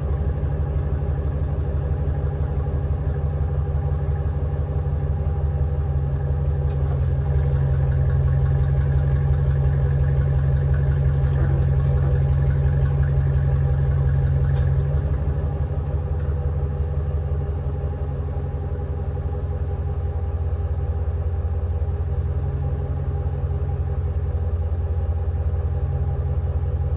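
Pickup truck engine idling steadily, a little louder for several seconds in the middle.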